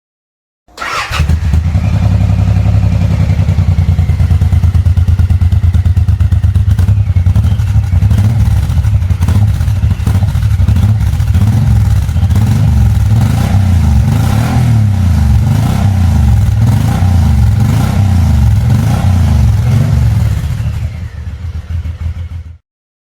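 Suzuki M109R's 1783 cc V-twin running through a Cobra Tri-Pro aftermarket exhaust: it idles at first, then the throttle is blipped repeatedly so the revs rise and fall over and over, before the sound cuts off abruptly near the end.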